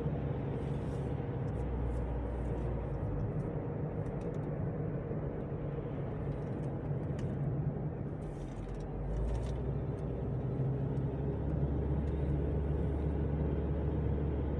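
Steady engine and tyre drone of a car driving along, heard inside the cabin. It eases briefly about eight seconds in, then picks up again.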